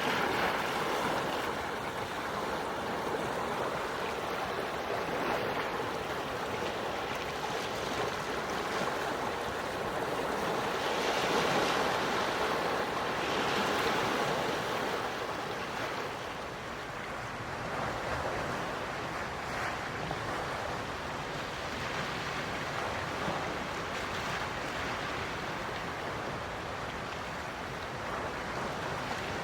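Quiet sea waves washing on the shore, a steady wash that swells and eases, loudest about eleven to fourteen seconds in.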